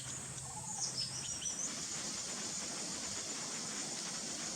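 Forest ambience dominated by a steady, high-pitched insect drone of crickets or cicadas, with a few faint, short high bird chirps in the first couple of seconds.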